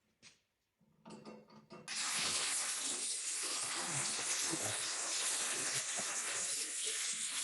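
Drill driving a 4 1/8 inch hole saw into sheet metal: the motor starts about a second in, and a steady hissing cut follows from about two seconds in.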